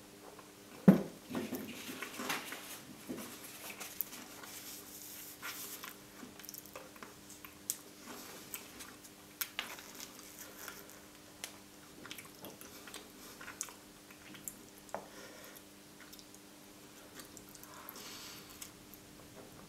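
Close-miked mouth sounds of eating a chocolate truffle dessert topped with whipped cream: wet chewing and lip smacks with scattered short clicks, the loudest a sharp click about a second in.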